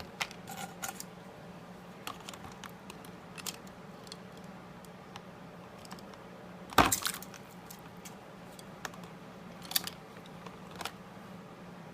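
Scattered clicks and knocks as a pot of hot water is opened and the crankbait is handled, with one loud knock about seven seconds in, over a faint low steady hum.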